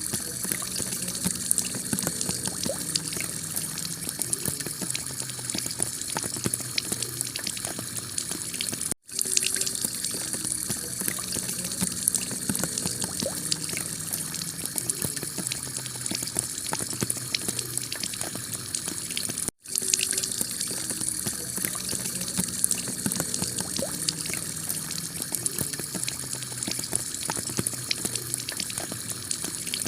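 Heavy rain pouring onto a clay-tiled roof: a dense, steady hiss full of tiny drop ticks. It cuts out for an instant twice.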